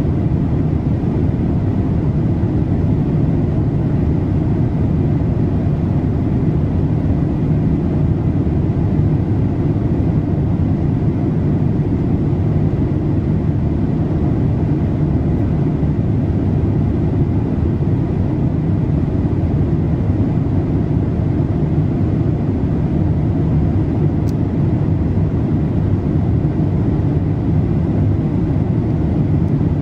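Steady low rumble of airflow and engine noise inside the cabin of a Boeing 787-8 airliner in cruise flight.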